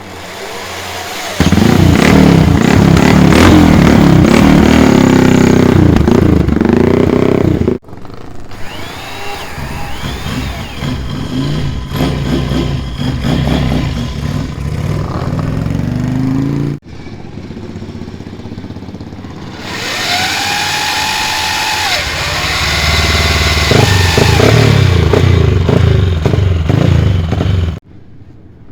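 Classic air-cooled racing motorcycle engines revving hard with repeated throttle blips, pitch rising and falling. The sound comes in three stretches that break off abruptly, the loudest in the first and last.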